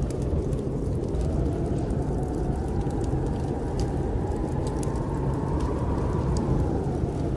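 Snowstorm wind blowing steadily, with a howling tone that slowly rises and falls, and scattered faint crackles of a wood fire in a fireplace.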